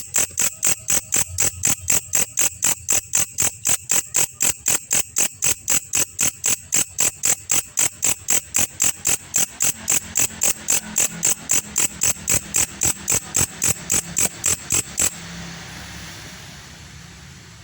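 Belalang kecek insect calling: a steady run of sharp, high chirps, about three a second, that stops abruptly near the end.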